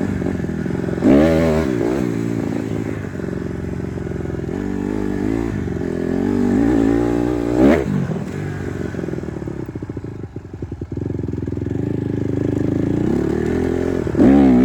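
Honda CRF150R dirt bike's four-stroke single-cylinder engine running as it is ridden, with quick revs about a second in, near eight seconds and again at the end, and a choppier low stretch around ten seconds.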